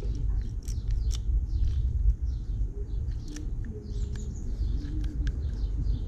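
Small birds chirping, over a steady low rumble, with a few sharp clicks.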